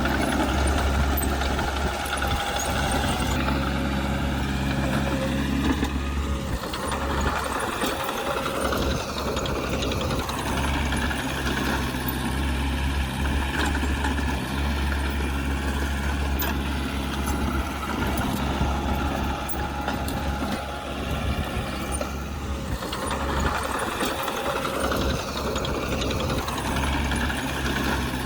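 Diesel engine of heavy earthmoving machinery running under work, its low note fading and strengthening a few times as the load changes.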